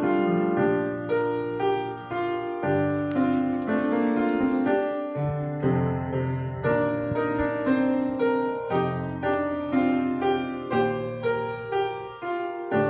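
Piano music: chords and melody notes played one after another at an even, moderate pace.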